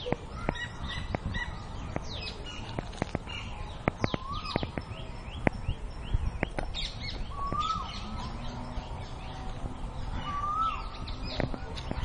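Several birds calling: a stream of short, high, falling chirps, with a lower rising-and-falling call repeated about every three seconds.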